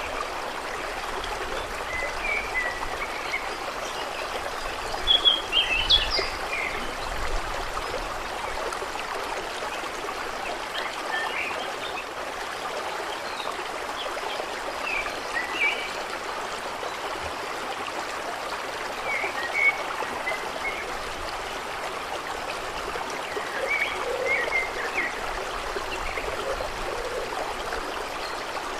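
Water trickling and flowing steadily, with short bird chirps now and then, a few of them in quick clusters.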